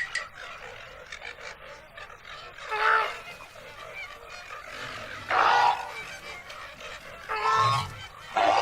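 An animal calling four times, each call a short, loud, clearly pitched cry of under a second, spaced a second or two apart.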